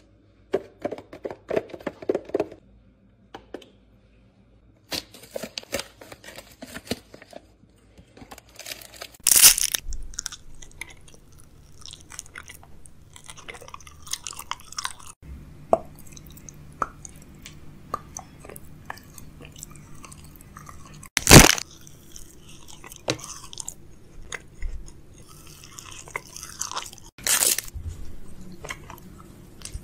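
Close-miked mouth sounds of a person biting and chewing food, with crunching and a few loud, sharp bites, the loudest about two-thirds of the way through.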